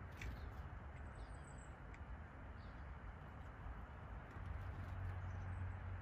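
Outdoor ambience: a steady low hiss and rumble with a few faint, short, high-pitched bird chirps, the clearest about a second in. A low hum swells briefly near the end.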